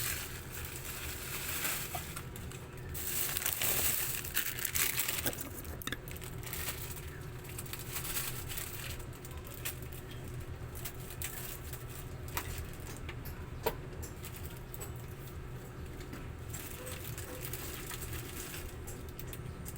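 Plastic packaging rustling and crinkling as goods are handled, with scattered light clicks, over a steady low hum.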